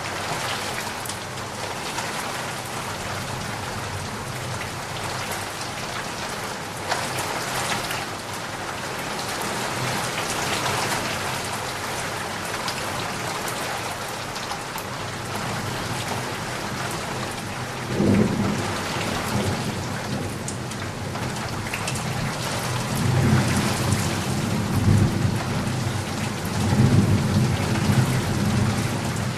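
Steady heavy rain falling and pattering on surfaces. Low rumbles of thunder come in about two-thirds of the way through and roll on, louder, toward the end.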